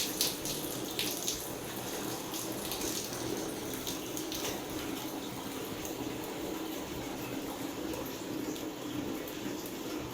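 Water running steadily from a tap, with a few sharp clicks and knocks in the first half.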